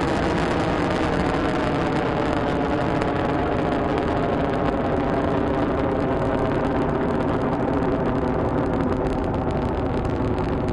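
Long March 2F rocket's engines firing in powered ascent, a steady, loud noise.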